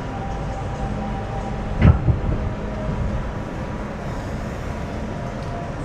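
A New York City subway train running, heard from inside the car: a steady rumble with a faint hum, and one sharp clunk about two seconds in.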